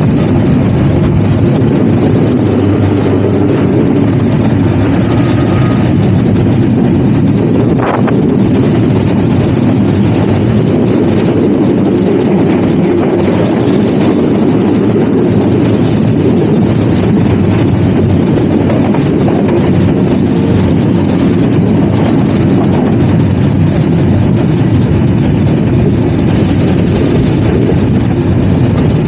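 Passenger train running at speed: a steady loud rumble of wheels on track mixed with wind at the open carriage door, with a single knock about eight seconds in.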